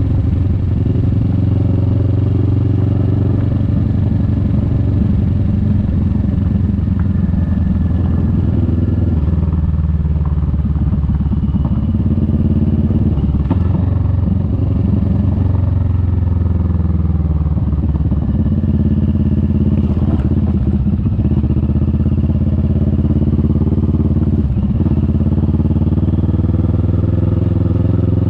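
Kawasaki Vulcan S 650's parallel-twin engine running steadily while riding. Its note falls and rises a few times as the rider eases off and gets back on the throttle.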